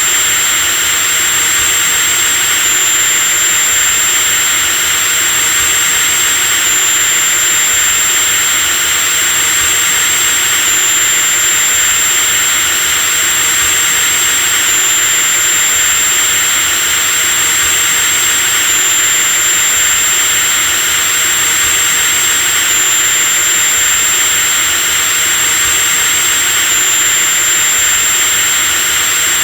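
Electric drill running continuously at full speed: a steady high whine over a whirring hiss, with a slight shift in the whine about every four seconds.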